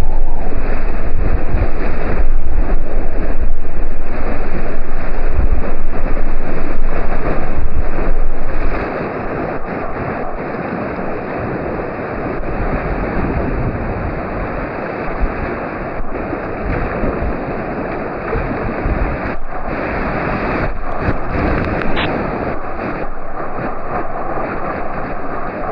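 Rushing class III whitewater, with heavy wind-like buffeting on the microphone for the first nine seconds, then a quieter, steadier rush of the river.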